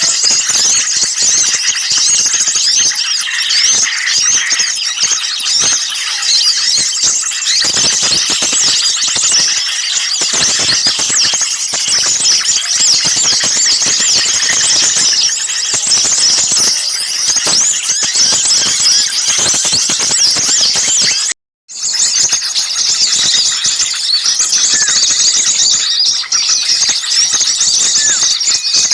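Dense, shrill chattering of many small songbirds calling at once, chirps and trills piling over each other without pause: an agitated 'noisy small birds' lure recording used to draw birds in. It cuts out completely for a split second about two-thirds of the way through, then carries on.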